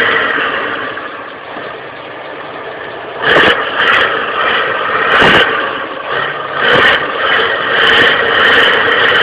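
Tractor engine running and revving. Several sudden loud surges of noise come from about three seconds in.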